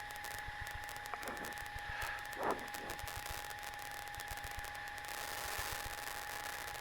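Faint steady electrical hiss with a thin, constant high-pitched whine, with two soft brief sounds about a second and a half and two and a half seconds in.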